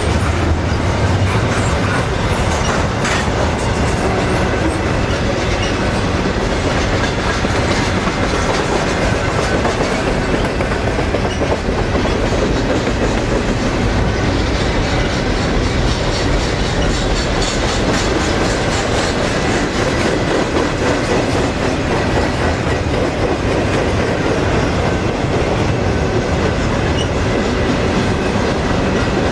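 Double-stack container cars of a freight train rolling past close by: a steady, loud rolling noise with repeated wheel clicks.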